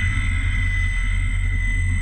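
Steady ambient drone: a constant low rumble with a thin, high, steady tone held above it, like a documentary's sound-design or music bed.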